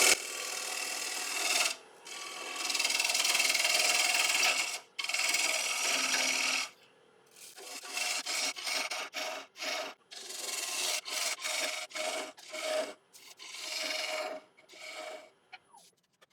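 Bowl gouge cutting sycamore on a spinning lathe, taking passes across the inside bottom of a bowl: a hissing, scraping sound in three long continuous cuts, then a run of short cuts about two a second that stops just before the end.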